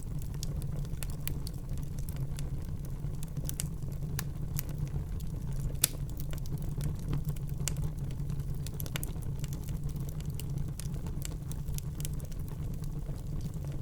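Wood fire burning in a fireplace: a steady low rumble of flames with frequent irregular crackles and pops, one sharper pop about six seconds in.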